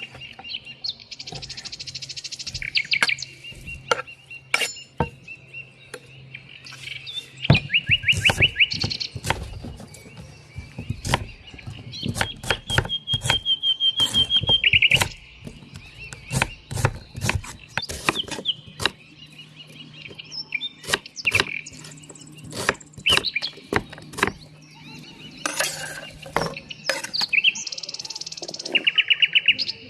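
Songbirds chirping, with several rapid trills, over many sharp knocks and clicks scattered through.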